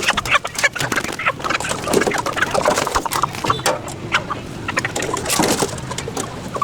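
Chickens clucking and calling, mixed with many short sharp clicks and knocks.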